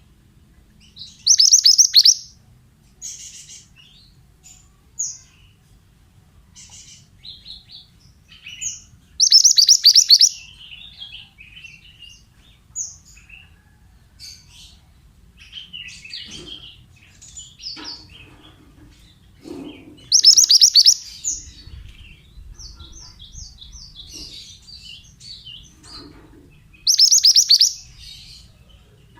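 Pied bushchat (mantenan) calling: four loud, rapid, chattering trills of about a second each, with short high chirps scattered between them.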